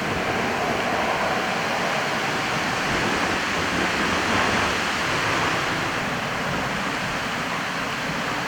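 Jet engines of a Boeing 737-800: a steady, even rushing noise with no change in level.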